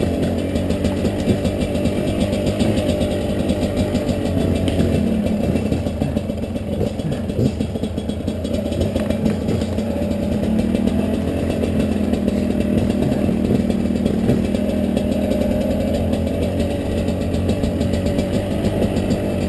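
Two-stroke dirt bike engine running steadily at low revs, its pitch dipping slightly and then rising again partway through.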